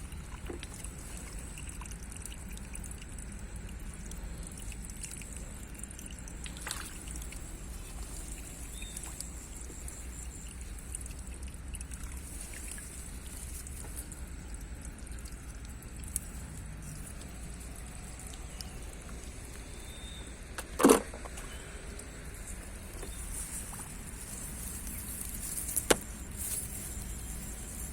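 Shallow paddy water trickling and sloshing, with a sharp splash or knock about 21 seconds in and a smaller one near 26 seconds.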